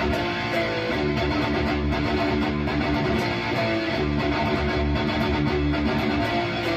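Distorted electric guitar through a Bogner Uberschall preamp module with its sag control turned fully up and delay on, played as a steady riff with repeated picked chugs.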